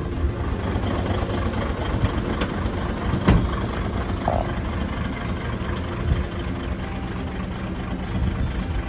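Mitsubishi Super Great heavy truck's diesel engine idling steadily, with one sharp knock about three seconds in.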